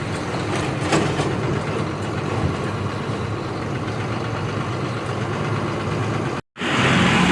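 Lorry engine running with a steady low drone, heard from the cab. It cuts off abruptly about six and a half seconds in, and louder road and traffic noise takes over.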